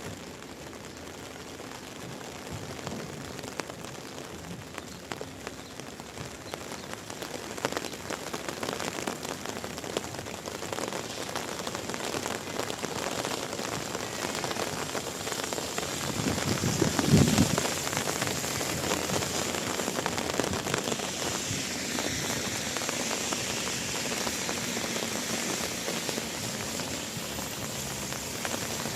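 Steady rain falling, an even hiss dotted with sharper drop ticks, growing gradually louder through the first half. About halfway through a short low rumble swells and fades, the loudest moment.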